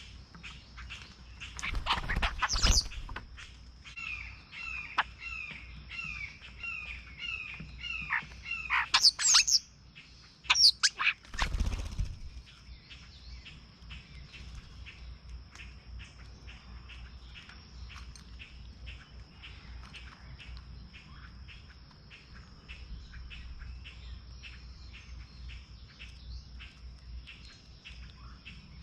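Songbirds calling at a backyard feeder. A loud call comes about two seconds in, then a run of about nine evenly repeated chirps, then loud sweeping calls. After that come only faint, irregular ticks over a steady high-pitched tone.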